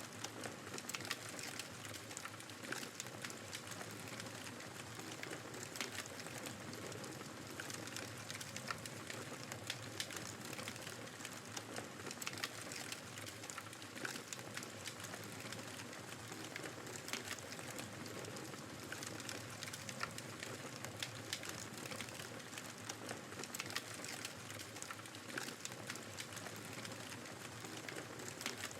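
Wood fire crackling in a fireplace, frequent small pops and snaps over a steady hiss of blizzard wind.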